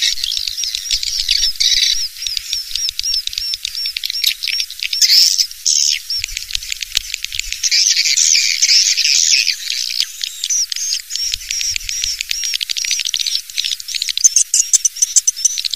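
Swiftlet calls: a dense, rapid stream of high chirps and twitters, many per second, with sharper, higher chirps near the end. This is a swiftlet lure-call recording of the kind played to draw swiftlets into a nesting house.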